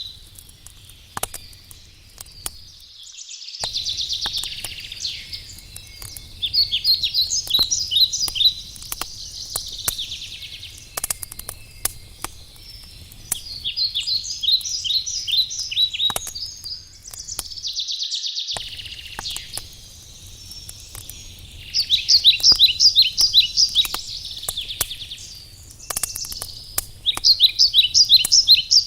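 A songbird singing phrases of quick repeated chirps every several seconds, over scattered crackles and pops of a burning wood campfire. The sound cuts out completely twice for a moment.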